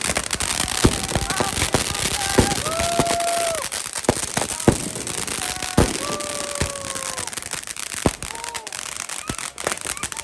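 New Year fireworks and firecrackers going off: a dense, continuous crackling with sharp bangs every second or so. Several short, steady tones sound among the bangs.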